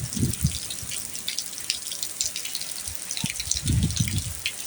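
Rainwater dripping and splattering in many irregular drops over a steady hiss of rain, with two short low rumbles, one just after the start and one near the end.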